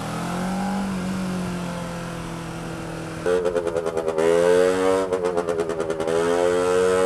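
A motorcycle engine running steadily, then about three seconds in a louder, high-pitched buzzing moped engine cuts in, pulsing rapidly and holding a fairly steady pitch.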